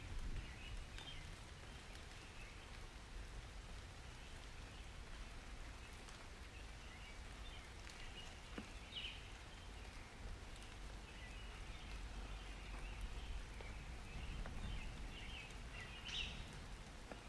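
Rain ambience: a soft steady patter of rain with a low rumble beneath it and birds chirping in short scattered calls, two of them a little louder, about nine seconds in and near the end.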